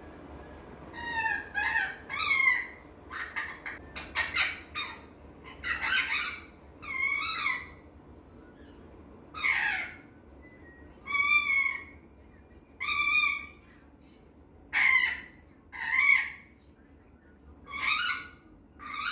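Male green eclectus parrot giving a string of short, high-pitched, wavering cries, one every second or two, that sound almost like crying. The owner takes it for relaxed, contented chatter to himself.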